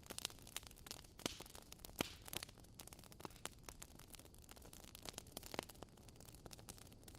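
Fire crackling: irregular sharp pops and snaps, a few louder ones standing out, over a soft steady hiss.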